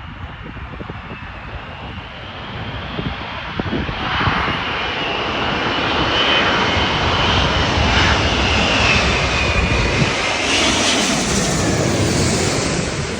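Airbus A380's four turbofan engines as the airliner goes by. The jet noise swells over several seconds, carries a high whine that dips in pitch as the aircraft passes, and begins to fade near the end.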